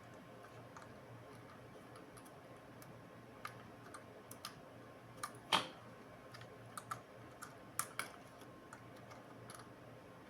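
Scattered light clicks and taps of small hard plastic and metal parts being handled, with one louder click a little past halfway and a couple more near the end.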